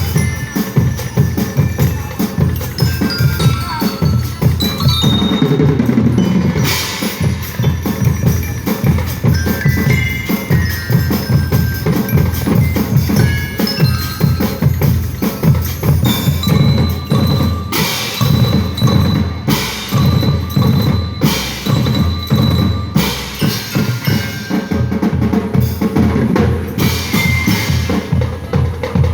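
A percussion band playing: a dense run of drum strokes with a bass drum underneath, and a melody picked out on glockenspiel-like bells above.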